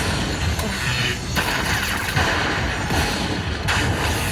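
Slot machine game sounds: electronic music with rapid clicking effects, over the busy noise of a casino floor.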